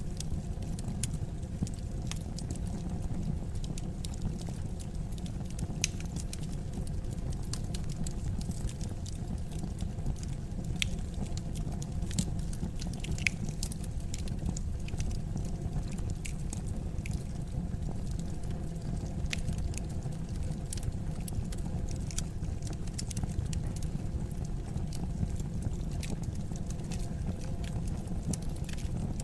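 Wood fire crackling in a fireplace: a steady low rumble of burning with frequent irregular sharp pops and snaps of the burning wood.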